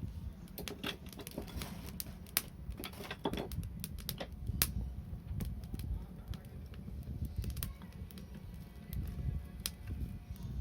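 Wood fire crackling: irregular sharp snaps and pops over a low rumble.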